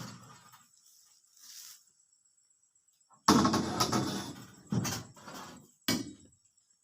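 Heavy thuds of oil palm fruit bunches being dropped into a boat: one at the start, then three more about a second apart from about three seconds in, each dying away over a moment.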